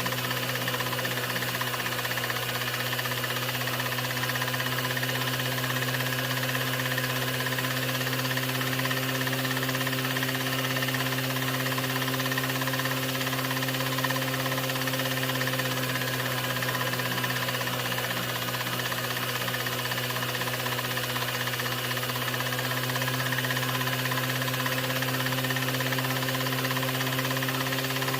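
Steady mechanical hum: an unchanging low drone with a few fainter steady tones over an even hiss, with no breaks or changes.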